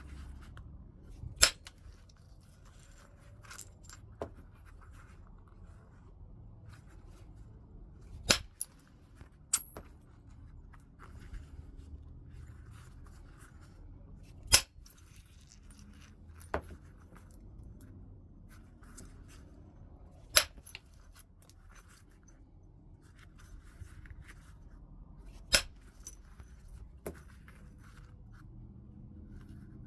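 Heat-treated Burlington chert being flintknapped: sharp clicks of flakes being struck off, irregularly spaced every few seconds, with quieter scraping and rubbing on the stone between strikes.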